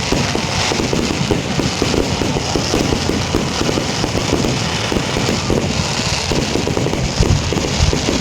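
Fireworks going off in a dense, continuous barrage of rapid crackles and pops.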